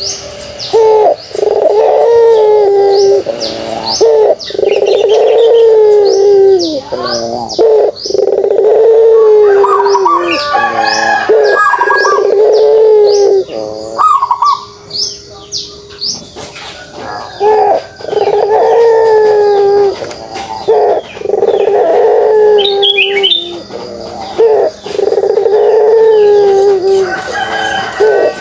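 Puter pelung dove (a barbary dove) giving its kugeruk call: loud, long, low coos of two or three seconds each, repeated again and again with short pauses. Short high chirps from other birds sound faintly above the coos.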